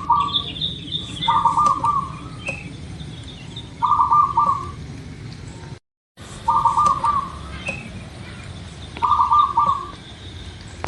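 Zebra dove (perkutut) cooing: a short, rapid trilled coo phrase repeated four times, about every two and a half seconds. Fainter high chirps from other small birds run underneath.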